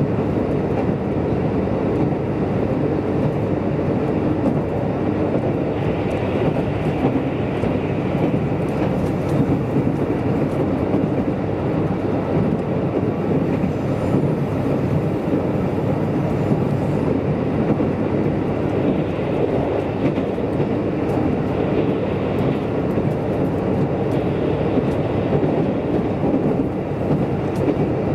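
Steady running noise of a KiHa 185 diesel railcar heard from inside the car: the wheels rumble on the rails and the engine runs under way, with a few faint clicks from the track.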